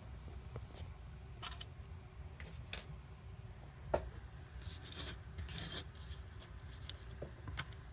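Faint handling noises of small diecast model cars: a few light clicks and soft rubbing and scraping as they are picked up and moved, with a longer stretch of rubbing about halfway through.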